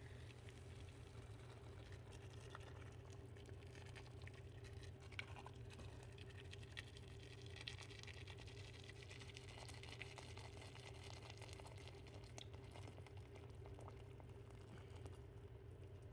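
Faint bubbling and crackling of a pot of saleeg (rice and chicken broth) simmering, with scattered small pops over a steady low hum.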